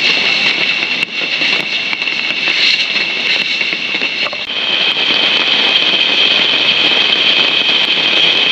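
Heavy rain falling, a loud steady hiss, with a high-pitched steady drone over it that steps slightly up in pitch about halfway through.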